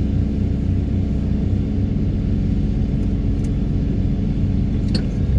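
Excavator engine and vibratory pile hammer running steadily while pulling a steel sheet pile: a continuous low drone with a steady hum, and a short click near the end.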